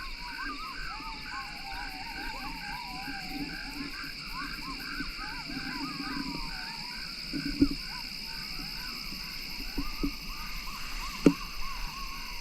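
A night chorus of frogs croaking in repeated calls, with wavering higher calls and a steady high-pitched drone behind them. A few sharp knocks come through in the second half.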